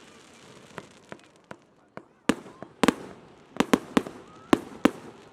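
Fireworks exploding in a string of sharp bangs: a few light ones at first, then from about two seconds in a quicker run of loud reports, each trailing off in an echo.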